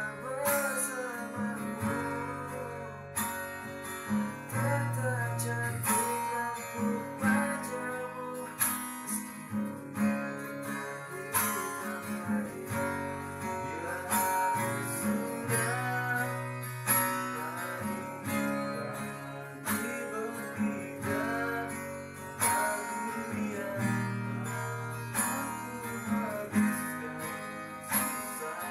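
Acoustic guitar playing a song, with plucked melody notes over deeper bass notes and some strumming.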